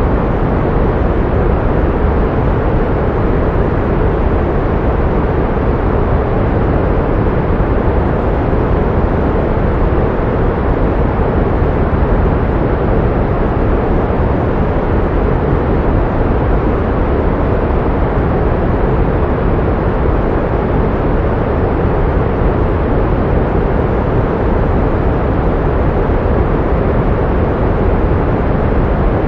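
Pink noise: a steady, even rushing hiss with no changes, fuller in the low range and fading toward the top.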